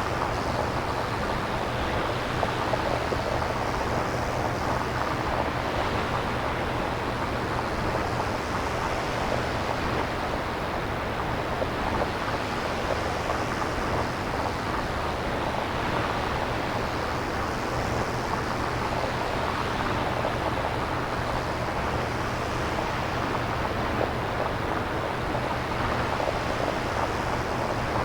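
Synthesized nature ambience: a steady rushing noise like surf, its upper part slowly swelling and fading every five or six seconds over a steady low rumble.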